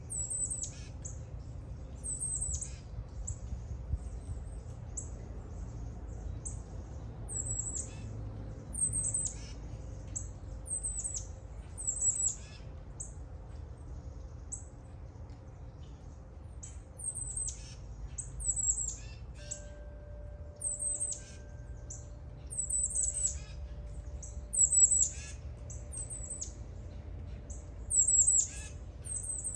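A songbird repeatedly giving short, very high calls that sweep quickly downward, one every second or two, over a low rumble of wind.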